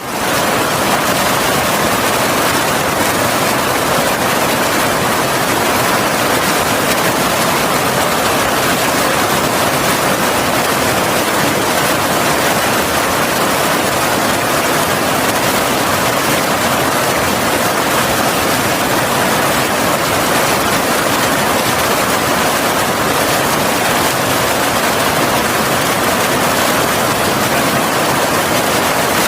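A heavy waterfall: steady rushing of falling water.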